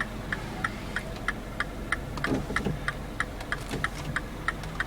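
Hazard-light flasher of a 2010 Mini Cooper S ticking in the cabin, a steady tick-tock of about three clicks a second as the hazard warning lights blink.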